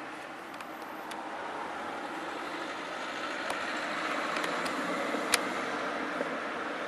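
Fireworks going off: a few light pops early on and in the middle, then one sharp bang a little past the middle, over a steady rushing background noise.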